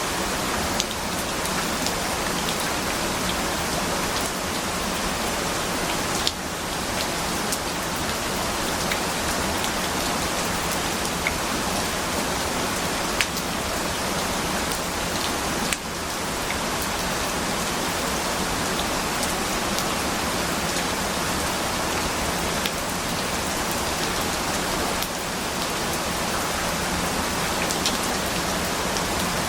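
Steady rain falling, with a few sharper individual drops ticking through it now and then.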